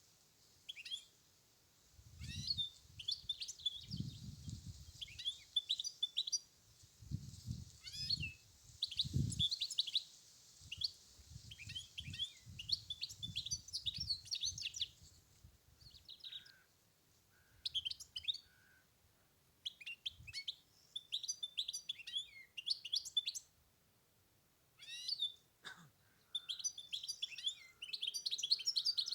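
European goldfinch singing in quick, twittering phrases with short pauses between them, while a low rumble comes and goes in the first ten seconds.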